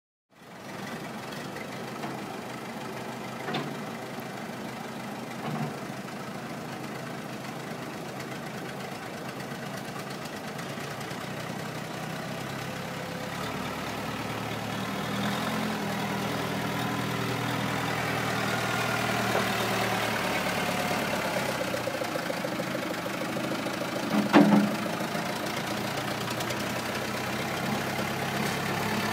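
Case 580E loader backhoe's diesel engine running steadily, picking up a little in speed and loudness about halfway through. A few metallic clanks from the machine, the loudest about three-quarters of the way in.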